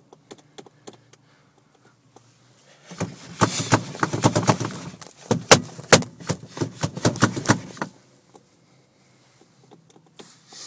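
R35 Nissan GT-R steering wheel being shaken hard against a stuck steering lock: a fast clatter of knocks and clicks in two runs, from about three to eight seconds in, with a few faint clicks either side. The steering lock has failed and the car will not start.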